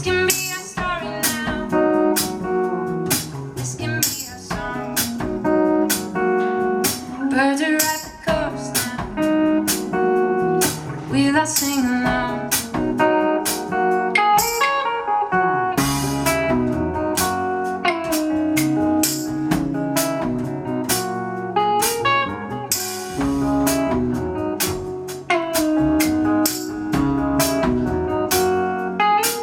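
Live band playing an instrumental passage: guitar leading over drums with a steady beat.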